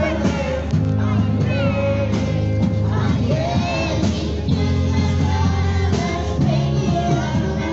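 Live pop-rock band playing with a prominent bass line while voices sing over it.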